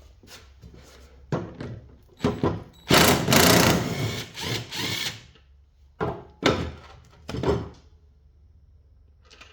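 Metal parts and hand tools being handled at a workbench: a few sharp clunks, then a loud stretch of rattling and scraping about three seconds in, then more clunks.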